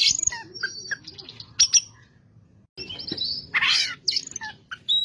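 Oriental magpie-robin (kacer) singing a varied string of high whistles and chirps, with one harsh rasping note past the middle and a brief pause before it.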